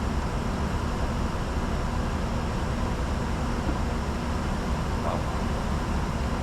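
Steady cockpit noise of a Bombardier Challenger 605 jet in flight: an even rush of airflow over the airframe with a low hum underneath, holding at a constant level.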